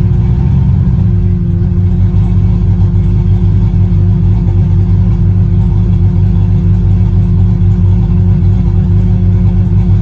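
Truck engine running at a steady speed, a loud low drone with no revving.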